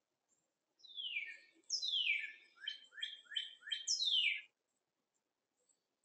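A songbird singing one phrase of about seven falling notes over some three seconds: two long down-slurred notes, then four short quick ones, then a last long one.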